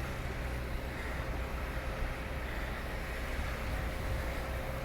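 Steady city street noise of vehicle traffic passing, with a faint steady hum.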